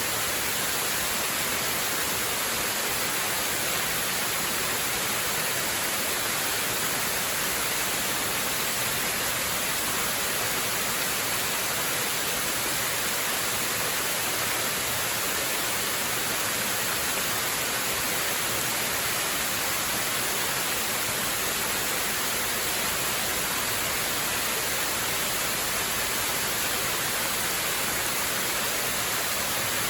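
Waterfall: a steady, unbroken rush of falling water, even and unchanging throughout, with a bright hiss on top.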